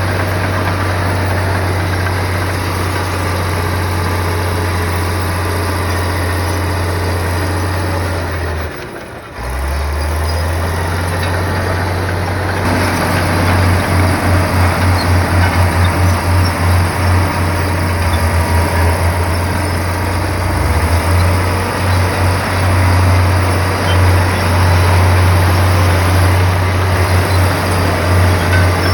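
Komatsu bulldozer's diesel engine running with a steady low drone, dropping away briefly about nine seconds in. From about thirteen seconds in it turns to a louder rhythmic throb, two or three pulses a second, as the machine works.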